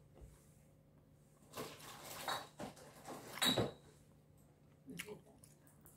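Close-up eating sounds of someone chewing shrimp: wet chewing and mouth smacking, with a sharper click about three and a half seconds in and a few small ticks near the end.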